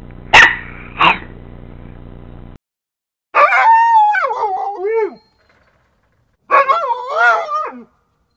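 A dog barking twice in quick succession over a steady hum. After an abrupt cut, a dog gives two drawn-out, wavering howling whines, each sliding down in pitch at the end.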